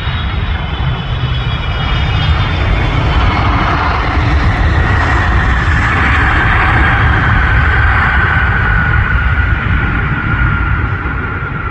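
Jet airliner's engines passing: a high whine that slowly slides down in pitch over a heavy low rumble, easing off near the end.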